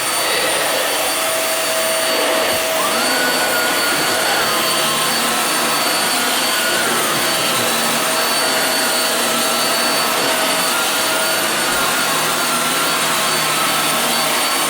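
Hoover WindTunnel Air bagless upright vacuum cleaner running steadily as it vacuums: an even rush of air with a fixed high motor whine, and a faint wavering whistle from about three seconds in.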